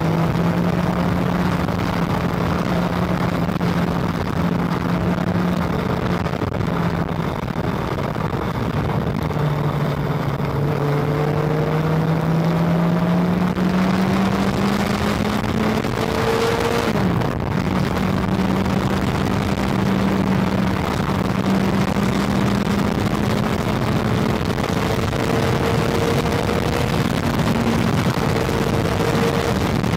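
Honda CB400 motorcycle engine running at cruising speed, with wind rushing past. Its note drops after about eight seconds, climbs slowly as the bike picks up speed, and dips briefly just past halfway before holding steady.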